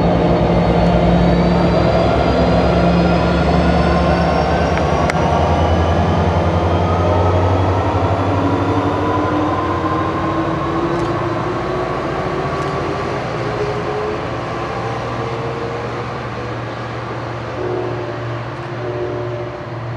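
NJ Transit diesel-hauled passenger train running, with a steady low engine hum and a whine that rises slowly in pitch as the train picks up speed. The sound gradually fades.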